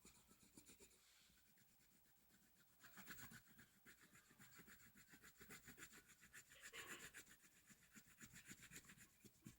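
Faint, quick back-and-forth scratching of colouring strokes on a paper page, about five strokes a second, growing stronger about three seconds in.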